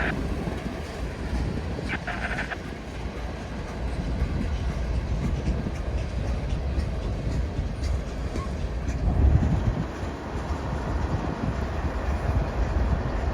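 Freight train cars rolling past on the rails: a steady low rumble of wheels on track with scattered light clicks.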